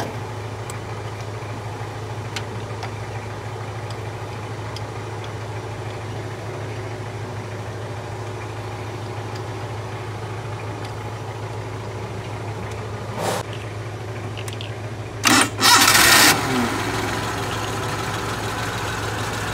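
Suzuki Mehran's three-cylinder petrol engine running steadily at idle, with a short louder burst about thirteen seconds in and a bigger one about fifteen to sixteen seconds in, after which it runs a little louder.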